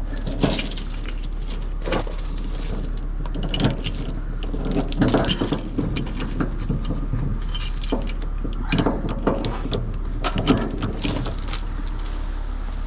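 Tow chains and rigging hardware clinking and rattling in irregular bursts as they are handled and pulled out for a low pull, over a steady low engine drone.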